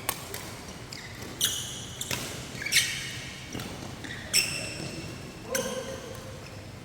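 Badminton rally: rackets hitting the shuttlecock about six times, roughly once a second, each hit a sharp crack with a short high ping from the strings.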